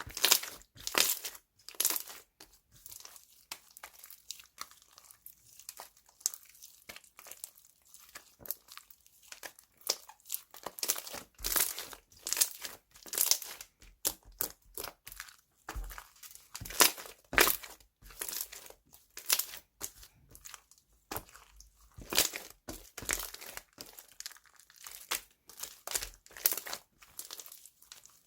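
Slime being pressed and stretched by hand, giving irregular crackling and popping sounds with crinkly, tearing textures.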